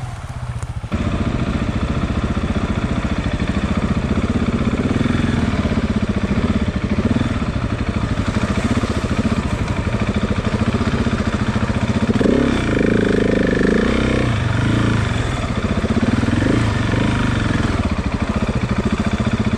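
KTM 690's single-cylinder engine running as the motorcycle is ridden over rough, muddy ground, with a rev-up about two-thirds of the way through.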